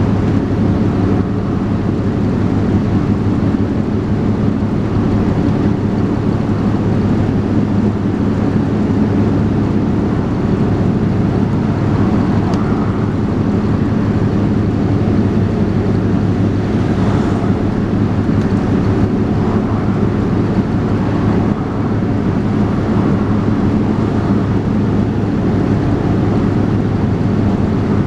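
Dennis Trident 2 double-decker bus engine pulling along under way, a steady drone with a low rumble, heard from on board.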